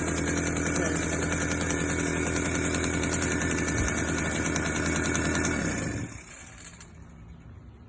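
The 1976 Garelli Eureka Flex moped's small two-stroke engine runs steadily, warming the gearbox oil before an oil change. About six seconds in it is switched off and dies away.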